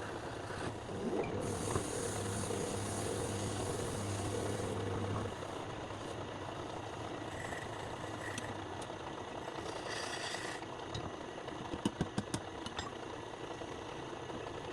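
A motor-driven machine running with a steady hum that eases after about five seconds, then a quick run of sharp knocks about twelve seconds in.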